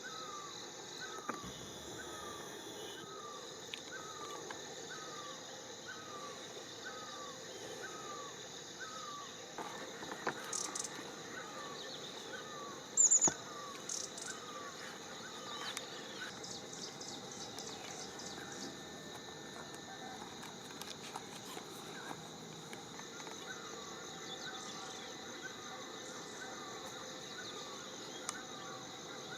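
Outdoor insect chorus: a steady high drone, with a short falling chirp repeated about every three-quarters of a second. Through the middle come scattered higher chirps, one brief burst clearly louder than the rest.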